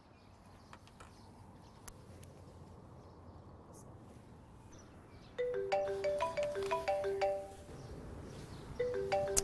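Mobile phone ringing with a melodic ringtone: a short phrase of clear chime-like notes comes in about halfway through, pauses briefly, and starts again near the end.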